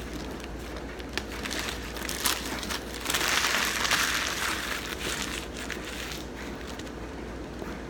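Paper food packaging crinkling and rustling in a burst of about a second and a half, with scattered small clicks and handling noises before it, over a steady low hum.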